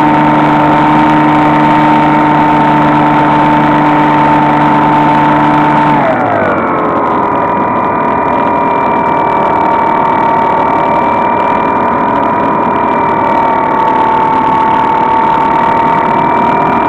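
Electric motor and propeller of a HobbyKing SkyEye FPV plane running steadily; about six seconds in the throttle is eased back and the whine drops in pitch, holding lower before rising slightly near the end.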